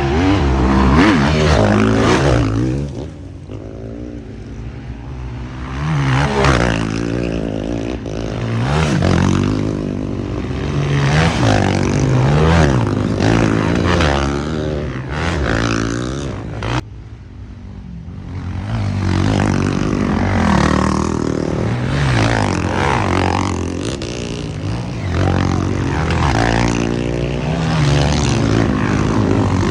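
Off-road motorcycle engine revving, its pitch climbing and falling again and again with the throttle, easing off for a couple of seconds about three seconds in and cutting off sharply just before the seventeen-second mark before picking up again.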